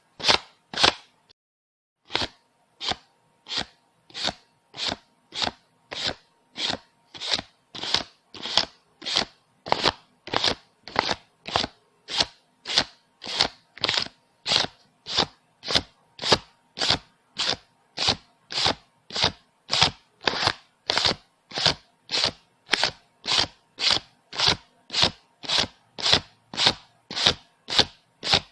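Paper banknotes being counted one by one, each bill flicked with a short stroke, about two a second in an even rhythm, after a brief pause about a second in.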